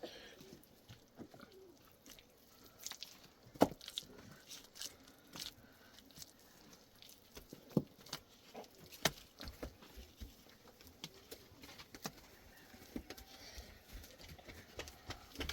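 Irregular knocks and taps, the sharpest about three and a half seconds in and more around eight and nine seconds, over faint background noise.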